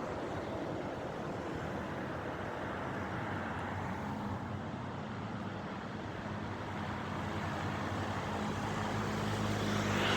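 Road traffic noise with a vehicle engine's hum growing louder over the second half, then cutting off abruptly.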